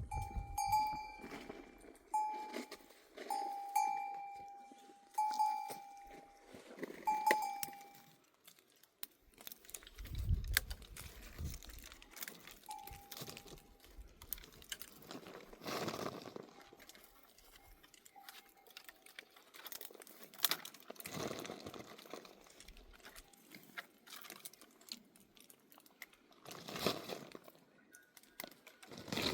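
A livestock bell ringing with a clear single note, about once a second for the first seven seconds, then only a few scattered strikes, over faint rustling and crunching.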